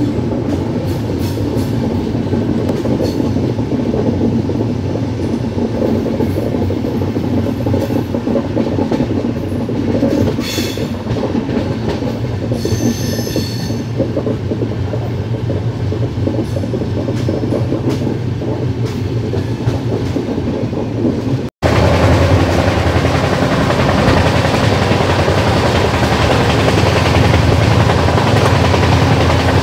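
Double-decker express train running, heard from inside the coach: steady rumble and clatter of the wheels on the track. There is a brief high wheel squeal about halfway through, and after a short break about two-thirds of the way in the running noise comes back louder.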